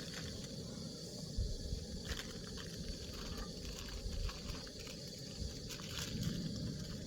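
Pre-cut peppers and onions sizzling in hot oil in a pan, with a few sharp pops as their moisture hits the oil.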